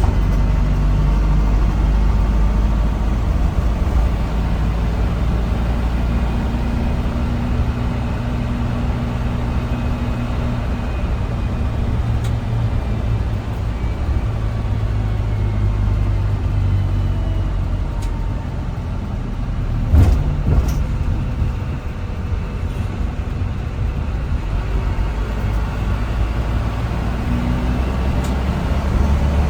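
Steady drone of an airliner's engines heard inside the passenger cabin: a low hum with several steady tones, with a couple of short knocks about two-thirds of the way through.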